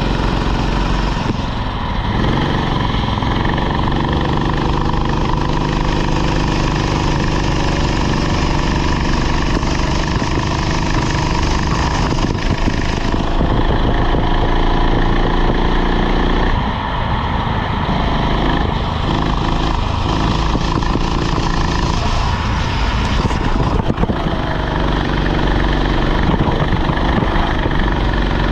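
Rental kart engine running hard, its pitch and level dropping briefly several times and climbing again, about two seconds in, around the middle and again a few seconds later.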